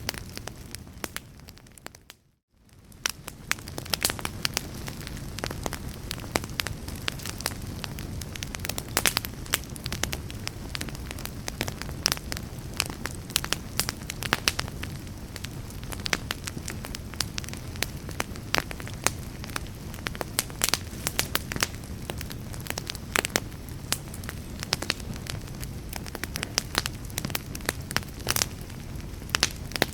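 Wood fire crackling, with many sharp pops over a low steady rumble. About two seconds in the sound fades out to near silence for a moment, then fades back in.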